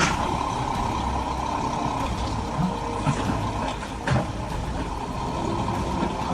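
Heavy machinery running with a steady rumbling engine, with a few sharp knocks about two and a half, three and four seconds in.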